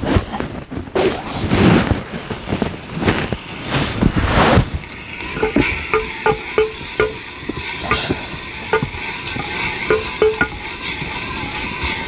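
Onion and ground ají frying in oil in a clay pot, stirred with a wooden spoon: a steady sizzle, with the spoon knocking and scraping against the pot's sides, each knock giving a short ringing tone. The first few seconds hold several loud rushing swells.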